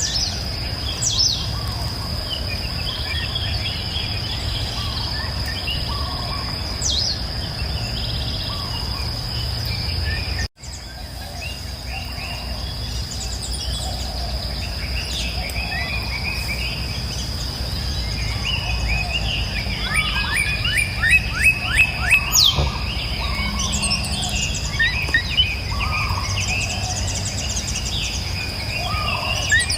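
Several birds singing and chirping, with a fast run of short, quick falling notes about twenty seconds in. Beneath them runs a steady high insect whine and a low, even rush of river water. The whole sound drops out for an instant about ten seconds in.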